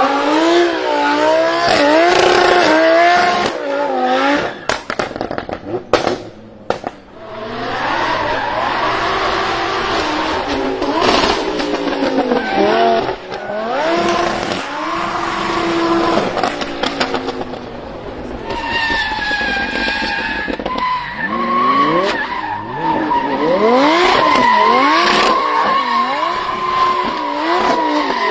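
An 800 hp Lamborghini Huracan drift car's engine revving hard up and down in repeated swings, with tyres squealing as it drifts. There is a brief drop in level about six to seven seconds in.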